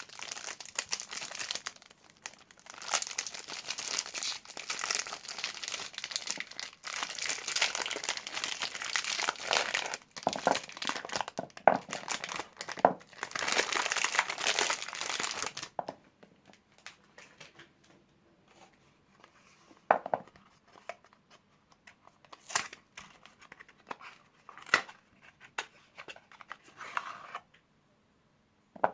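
Soap bar wrappers crinkling and tearing as bars of soap are unwrapped by hand, dense and continuous for about the first fifteen seconds. After that come only occasional light rustles and short taps.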